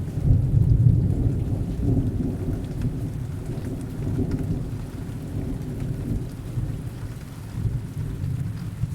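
Heavy rain with a low, rolling rumble of distant thunder that is loudest in the first couple of seconds and then slowly dies away.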